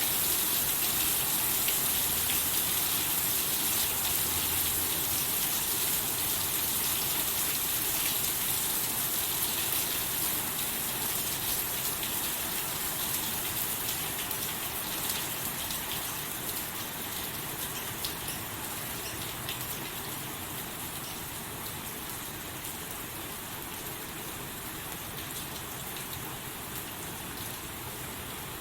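Rain falling steadily: a dense hiss of many drops pattering on a surface, growing gradually softer over the second half.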